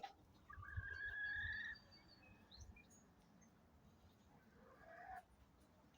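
A pet hen gives a thin, high, drawn-out call of about a second, the seagull-like call that the owner teases her for. A shorter, fainter call follows near the end.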